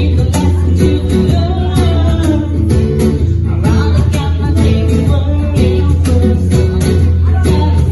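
Live band playing a song: a singer over guitar, a strong bass line and a steady drum beat.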